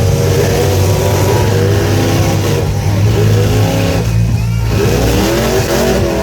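Several demolition-derby truck engines revving up and down over a heavy, continuous low drone.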